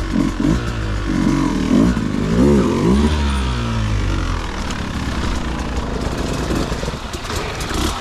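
Dirt bike engine revving in quick up-and-down blips, then running more steadily at lower revs from about three seconds in.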